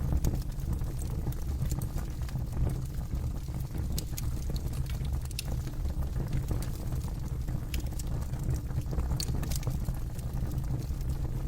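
Campfire burning, its wood crackling with scattered, irregular sharp pops over a steady low rumble.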